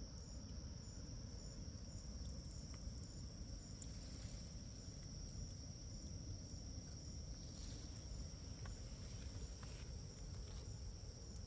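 Night-time chorus of crickets: a steady, continuous high-pitched trill, with a few faint clicks over a low background rumble.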